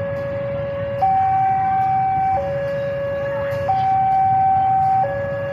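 Two-tone electronic warning alarm of a railway level crossing, switching back and forth between a low and a higher tone about every second and a half, over a low rumble.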